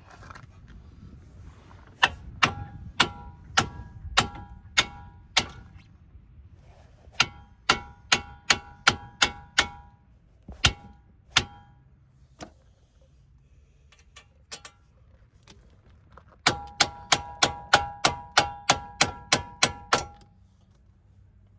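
Sharp metal-on-metal strikes, each with a short ringing tone, in three runs of blows; the last run near the end is faster, about four strikes a second.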